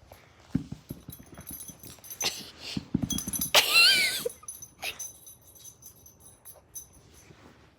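A dog gives one short, high whine that wavers in pitch, about three and a half seconds in. Before it comes a run of low knocks and scuffles.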